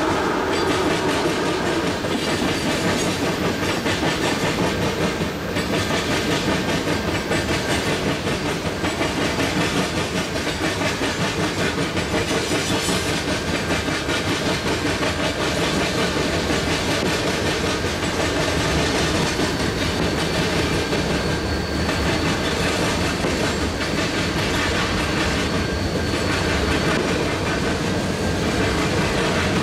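Freight train cars rolling past: a steady rumble of steel wheels on rail with a rhythmic clickety-clack as the wheels cross rail joints.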